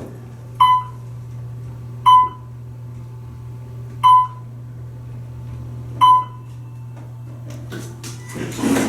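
Otis elevator car's electronic chime sounding four times, about two seconds apart, each a short ringing tone that fades, over a steady low hum in the car. Near the end a louder rush of noise starts.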